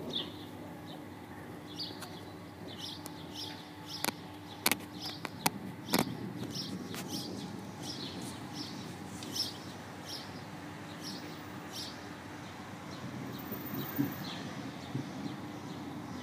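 Small birds chirping repeatedly over a steady low hum, with a few sharp clicks about four to six seconds in.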